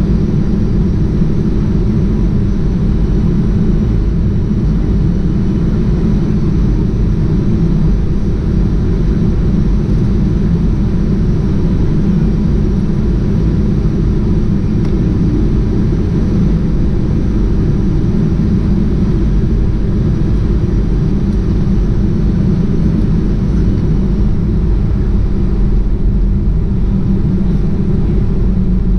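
Steady low rumble of an airliner cabin in flight, engine and airflow noise with a faint steady hum in it.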